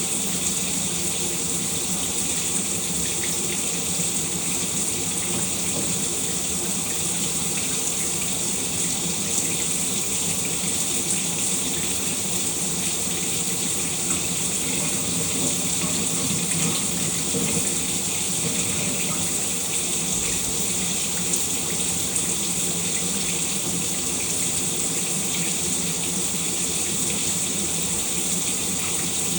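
Shower water running in a steady, even spray, with no change throughout.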